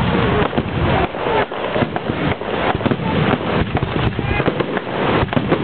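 Fireworks going off in a rapid, continuous barrage of cracks and bangs, with crowd voices mixed in.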